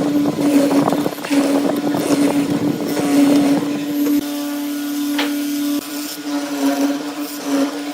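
Electric power tool motor running with a steady hum and rough, varying noise over it. The noise settles for a second or two near the middle, then roughens again.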